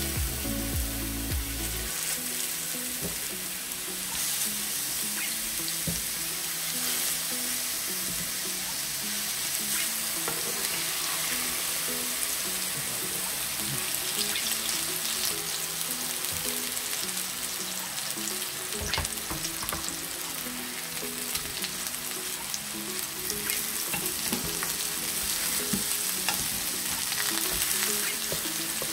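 Beef tteok-galbi patties sizzling steadily in oil in a frying pan over high heat, searing to seal in the juices. Soft background music plays underneath.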